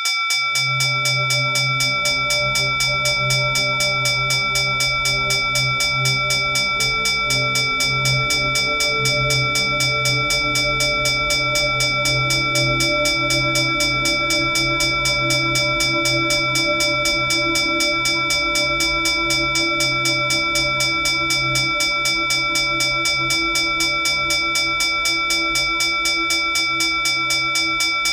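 A puja bell (ghanti) rung rapidly and continuously, about three strikes a second, its high ringing tones held steady, over a low drone of background music.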